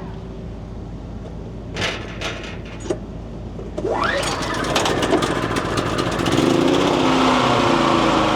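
Small portable generator starting: a few clicks, then about four seconds in the engine spins up and catches, settling into a steady run.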